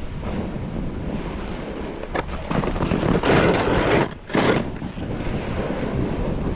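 Wind rushing over the microphone during a fast snowboard descent, with the board sliding and carving through snow in swishing surges. The loudest surge comes about three to four seconds in, broken by a brief drop.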